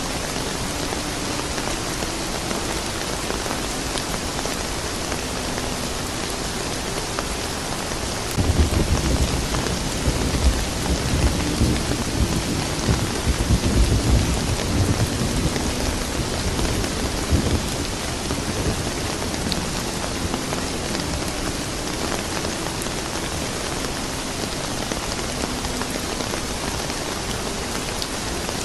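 Steady rain falling, with a roll of thunder that rumbles low and loud from about eight seconds in, lasting around ten seconds before fading back to the rain alone.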